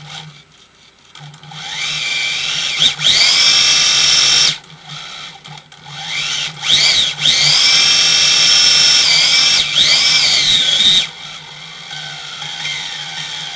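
Toy-grade RC racing car's electric motor revved with the wheels off the ground. Its whine climbs quickly to a high pitch and holds there twice, the second run about four seconds long, with short rising-and-falling blips between the runs.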